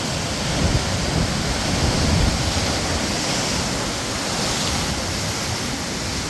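Ocean surf: waves breaking and washing on the shore in a steady rush, swelling a little about one to two seconds in.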